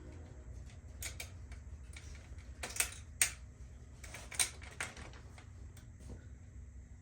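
Several sharp clicks and light taps of small metal bicycle parts being handled and fitted, irregularly spaced with the loudest near the middle, over a low steady hum.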